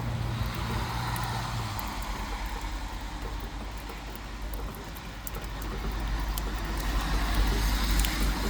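Road traffic passing on a wet road: tyre hiss and a low engine rumble that swell about a second in, ease off, then build again near the end as another vehicle approaches.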